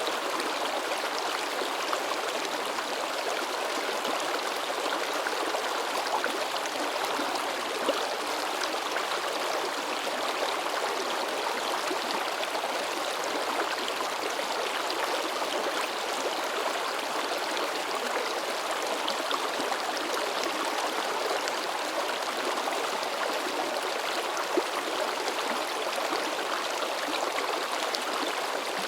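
River water babbling and splashing in a steady, continuous rush, with a few small splashes standing out now and then.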